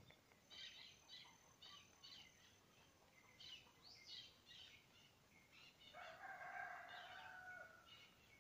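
Faint birds chirping in short repeated calls, with one longer, lower call lasting just over a second about six seconds in.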